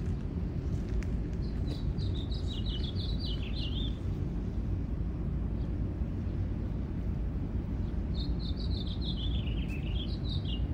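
A songbird sings twice, each song a quick run of chirping notes lasting about two and a half seconds, dipping in pitch and rising again at the end. Under it runs a steady low rumble.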